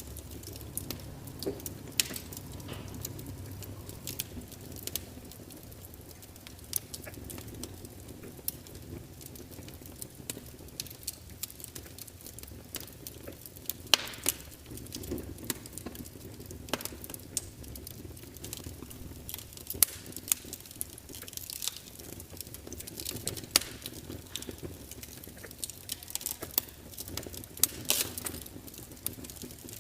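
Log fire burning, with irregular sharp crackles and pops from the burning wood over a low, steady rumble of flame.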